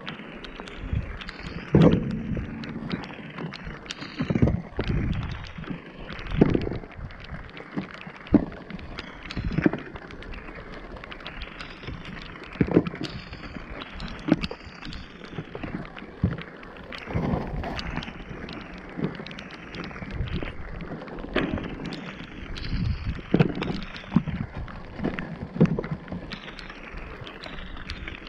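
Irregular dull knocks and thumps, roughly one every second or two, over a steady rushing noise: scrap being rummaged and handled in a skip in the rain. The sound comes muffled through a waterlogged GoPro.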